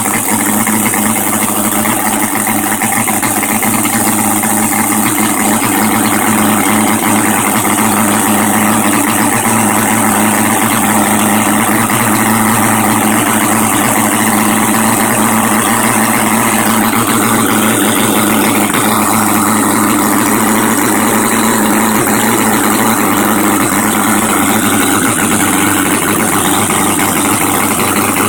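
Four-cylinder four-stroke engine running at a steady speed.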